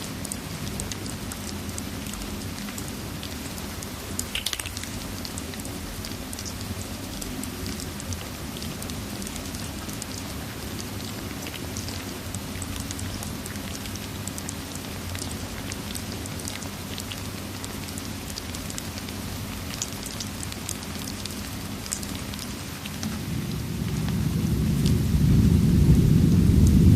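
Steady rain ambience with scattered small crackles and ticks. Near the end a low rumble of thunder swells up and keeps growing louder.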